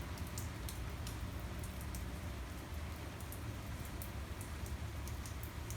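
Steady rain falling, with many scattered drips ticking on a surface over a low steady rumble.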